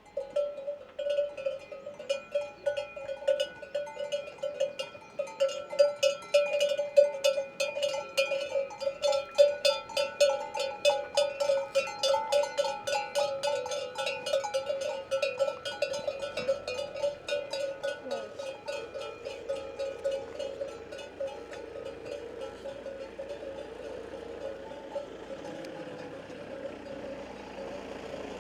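Many bells on grazing livestock clanking irregularly, a busy overlapping jangle that thickens through the middle and then fades away over the last several seconds, leaving a steady low hum.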